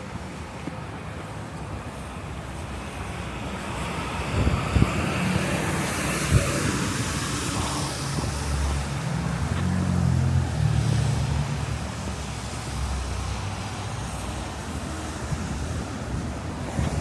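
Traffic on a snowy street: a motor vehicle passes, loudest about ten seconds in, with wind buffeting the microphone and a few knocks.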